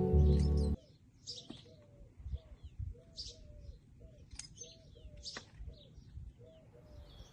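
Garden birds chirping in short high notes, with a lower call repeated over and over in brief rising-and-falling notes. Background music stops under a second in.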